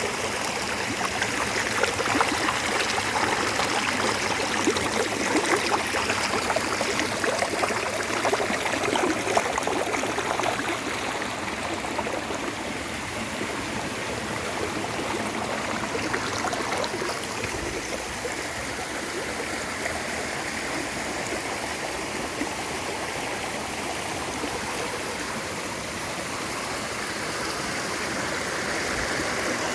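Stream water flowing and babbling steadily over rocks, a little louder over the first ten seconds or so.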